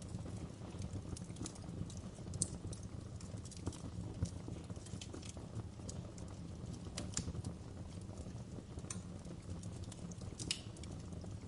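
Campfire burning: a steady low rumble of flames under irregular sharp crackles and pops, with a few louder snaps.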